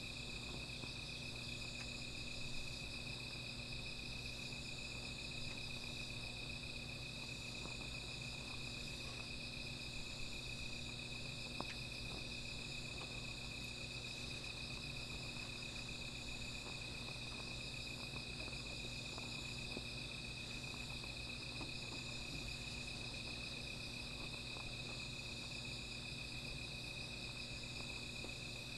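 Night insects trilling in a steady chorus, with one high band pulsing on and off about every second or two. Faint scattered ticks and a couple of small pops from a small fire crackling.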